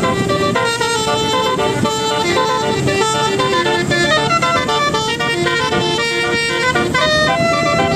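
A continuous run of horn-like tones stepping quickly from note to note like a melody, several pitches sounding at once.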